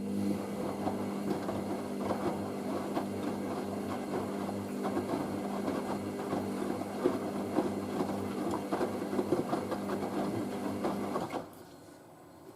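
Hoover SIX AAA160 washing machine's drain pump running with a steady hum and crackling, gurgling water as it empties the drum after the final rinse. It cuts off suddenly about eleven seconds in.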